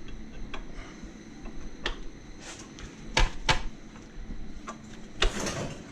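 Scattered sharp metallic clicks and knocks as a camshaft alignment tool and hand tools are fitted against the cam gears of an Audi 2.6 V6, with a short rattling scrape about five seconds in.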